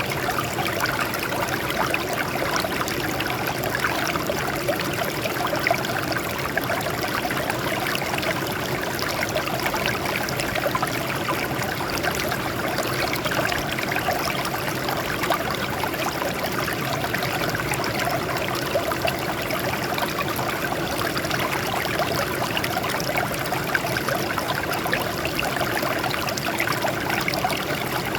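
Water flowing and trickling over rocks in a small stream, a steady, even splashing with fine bubbling detail.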